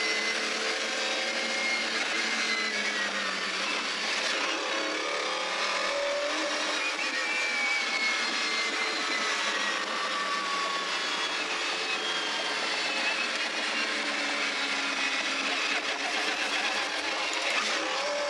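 Mercedes CLK GTR Roadster's V12 engine heard from inside the car, running steadily at a light cruise with its pitch drifting gently up and down and a thin whine above it.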